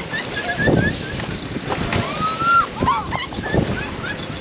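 Choppy sea sloshing and splashing against a sailing boat's hull in strong gusting wind, with short high squeals over it.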